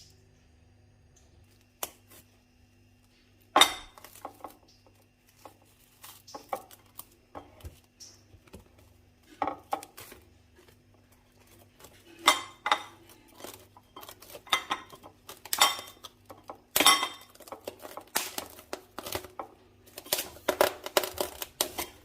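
Dishes and cutlery clinking and knocking during kitchen work: a single click, then a long irregular run of sharp clinks from a few seconds in, coming quick and close together near the end.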